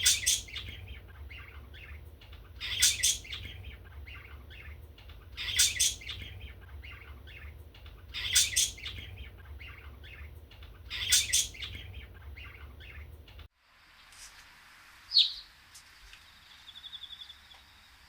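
Pet birds chirping in loud clusters about every three seconds over a low steady hum. About thirteen seconds in, the hum cuts off suddenly, and a lone chirp and a short fast trill follow.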